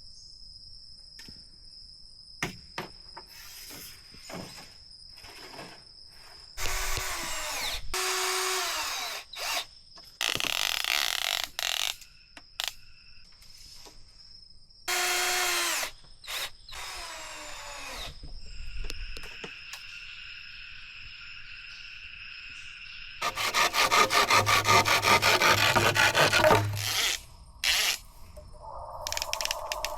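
A power drill runs in several short bursts, its motor pitch dropping as it winds down, while it bores into bamboo. Near the end comes a louder stretch of rapid, even rasping strokes, like sawing or filing the wood.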